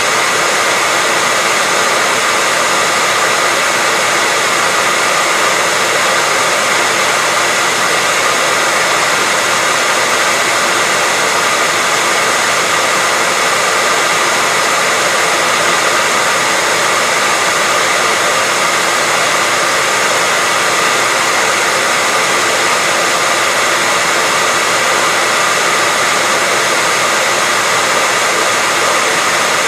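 Hair dryer running steadily: an even, unchanging hiss of blown air with a faint steady whine from the motor.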